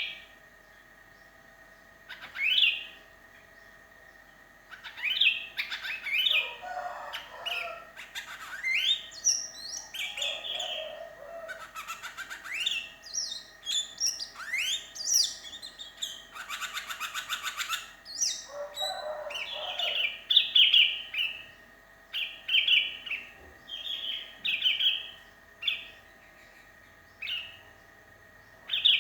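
Sooty-headed bulbul calling vigorously: bursts of short, rising whistled notes and bubbly phrases with brief pauses between them. A harsh, buzzy rattle comes about two-thirds of the way through.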